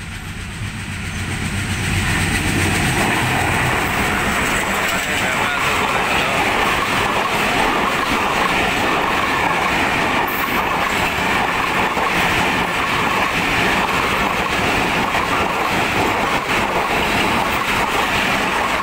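A train running at speed on the track, its wheels clattering steadily over the rails. The sound builds over the first couple of seconds, then holds loud and even.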